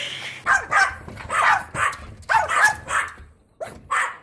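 A dog barking repeatedly: short, sharp barks in quick runs of two or three, with a brief pause about three and a half seconds in.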